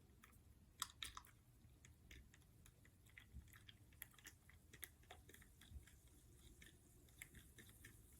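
A person chewing close to the microphone: faint, irregular clicks and small crunches of mouth sounds, a few louder ones about a second in.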